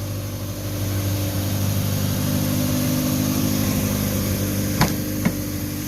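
1985 Honda Prelude's 2.0-litre four-cylinder engine idling steadily, with two short clicks near the end.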